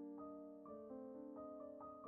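Soft background piano music, a gentle melody of single notes changing every few tenths of a second.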